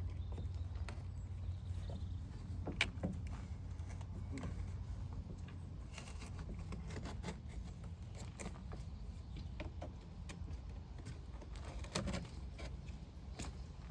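A steady low hum with scattered light clicks and knocks, the sharpest about three seconds in and again near the end.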